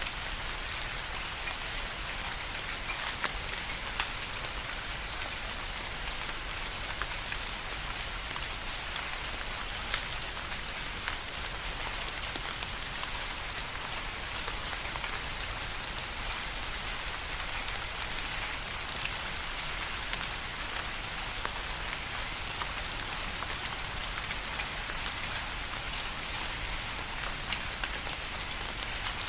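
Steady rain falling on a surface: an even hiss, with many separate drops ticking sharply through it.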